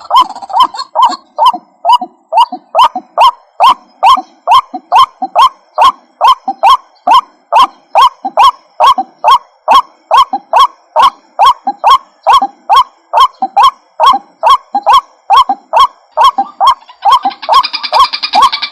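White-breasted waterhen (ruak-ruak) calling: a fast, even run of short, harsh calls, about two to three a second. A busier, higher-pitched sound joins near the end.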